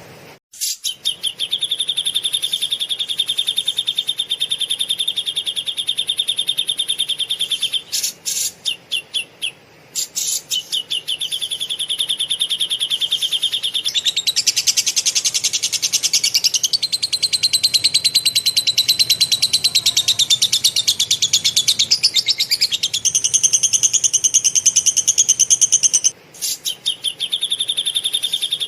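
A songbird's long, rapid chattering song: a fast run of evenly repeated high notes. It breaks off briefly a few times and switches to a higher, different series of notes in the middle.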